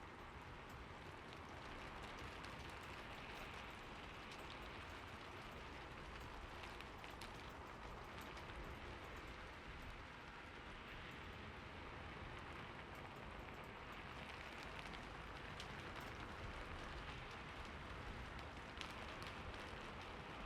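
Steady rain falling, a soft even hiss with scattered drops ticking on a surface.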